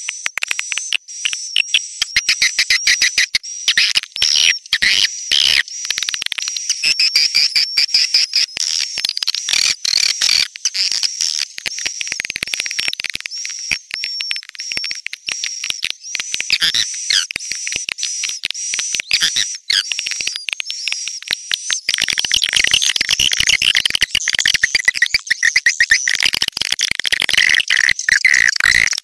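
Swiftlet call track: many fast, high twittering chirps and clicks overlap densely, as in a recording played to lure swiftlets into a nesting house. The chirping grows fuller about three-quarters of the way through.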